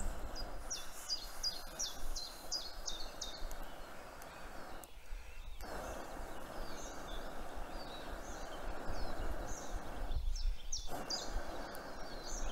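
Songbirds singing, phrases of quick, sharp, falling high notes repeated several times, over a steady rushing background hiss and a low rumble. The hiss drops out briefly twice, about five and ten seconds in.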